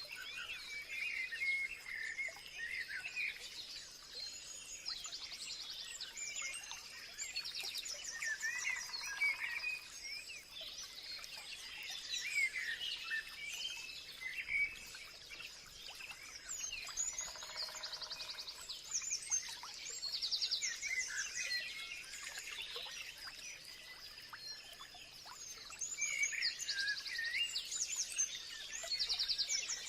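A chorus of many songbirds chirping and singing over one another, with quick high trills every several seconds. A faint steady high tone runs underneath.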